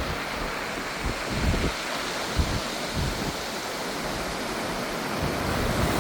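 Sea surf washing over a rocky shore: a steady rushing noise, with a few short low thumps in the first half.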